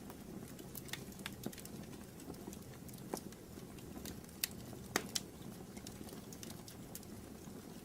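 Wood fire burning in a fireplace, crackling: irregular sharp pops and snaps over a low steady rumble, with a few louder pops around the middle.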